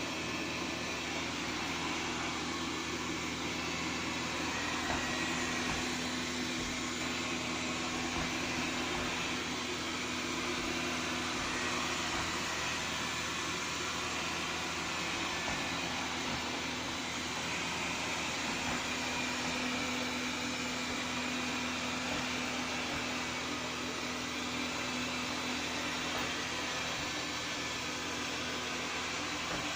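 Xiaomi Mi Robot Vacuum-Mop P running, a steady whir of its suction fan with a low hum.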